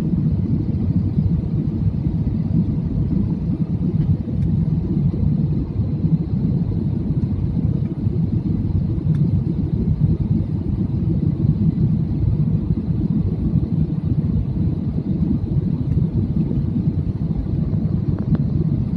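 Airliner cabin noise on the approach to landing: a steady, loud low rumble of engines and rushing air that holds unchanged throughout.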